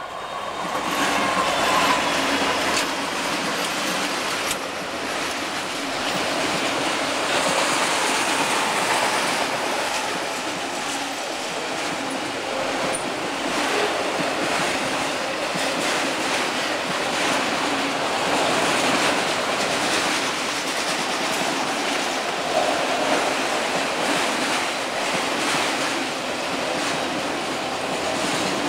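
Union Pacific freight train of autorack cars rolling past close by: a steady rush of steel wheels on rail with clickety-clack over the rail joints. It swells over the first couple of seconds as the train arrives, then holds steady.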